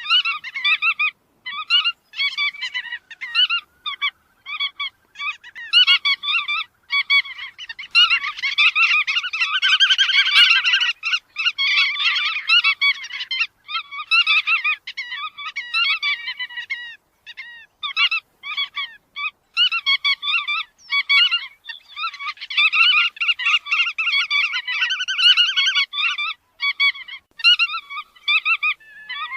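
Chắt đuôi vằn (a Vietnamese bird named for its barred tail) calling: quick runs of harsh, nasal, chattering notes with short pauses. The calls thicken into overlapping chatter from about 8 to 13 seconds in and again around 22 to 26 seconds, as if several birds are calling together.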